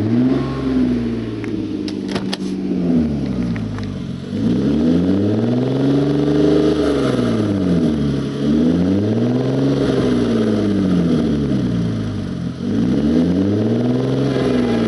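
Car engine revved up and back down about four times in slow, even swells, with a loud exhaust note that the owner believes means something is wrong with the exhaust. A few sharp clicks about two seconds in.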